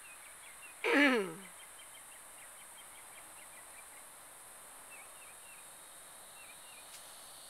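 Wildlife ambience: many faint, short chirps and a steady high-pitched insect hiss. About a second in comes a brief falling vocal 'ooh' from a woman.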